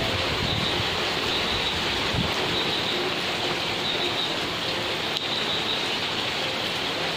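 Steady rain falling on garden foliage and a wet path, an even hiss, with faint high chirps near the top of it.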